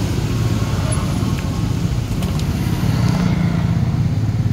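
Low, steady engine rumble of a Toyota minivan pulling away close by, amid street traffic.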